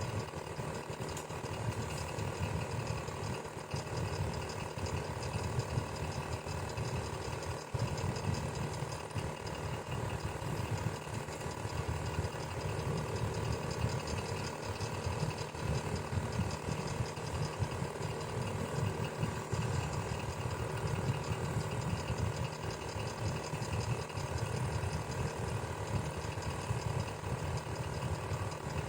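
Electric fan running steadily: a low, fluttering whir with a motor hum and several steady tones above it.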